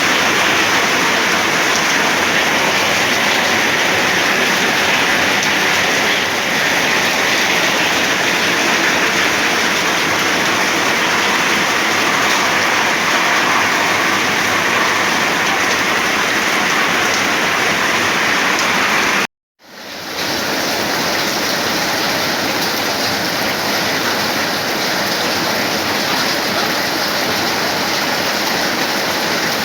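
Heavy storm rain pouring down in a loud, steady rush. It cuts out for a split second about two-thirds of the way through, then comes back.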